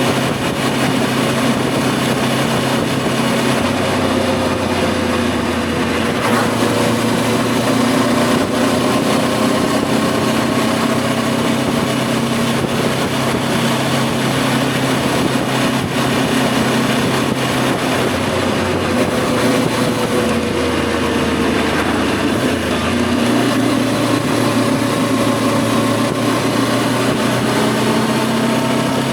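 Voge 525 DSX adventure motorcycle's parallel-twin engine running on the move, its pitch slowly falling and rising again several times as the speed changes.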